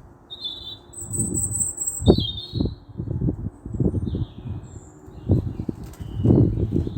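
Small birds chirping in short high calls, clustered in the first couple of seconds with fainter ones later, over irregular low rumbling gusts that are louder than the birdsong.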